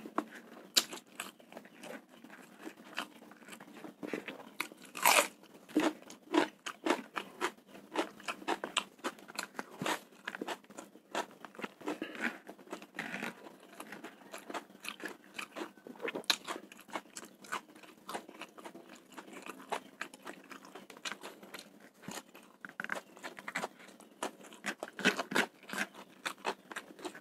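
Close-up eating sounds: a person chewing mouthfuls of spicy fried rice eaten by hand, with many short, irregular crunches and mouth clicks.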